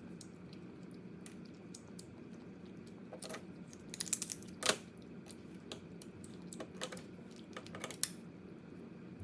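Crab being eaten: scattered small clicks and crackles of shell being cracked and chewed, with a burst of louder cracks about four seconds in and a sharp crack near eight seconds.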